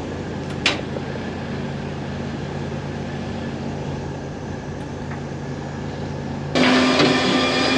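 Engine running steadily with a low hum and a single click about a second in; near the end a louder machine noise with a steady hum starts suddenly.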